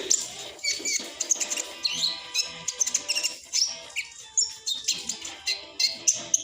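Olive-backed sunbird (kolibri ninja) singing a rapid, chattering 'ngriwik' twitter: a fast run of high, thin chirps and short pitch glides with no pauses.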